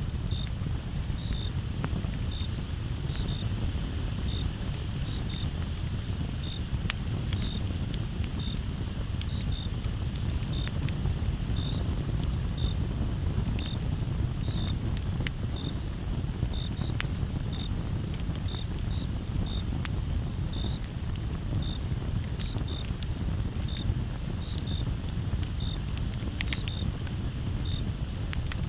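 Wood campfire crackling, with scattered sharp pops over a low steady rumble, while crickets chirp in short, evenly repeated chirps about once or twice a second over a steady high insect buzz.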